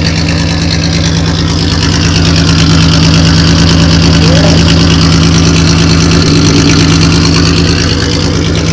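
1986 Ford Ranger engine running steadily in gear, driving the raised rear wheels so they spin forward on the locked differential. It gets a little louder about two seconds in and eases slightly near the end.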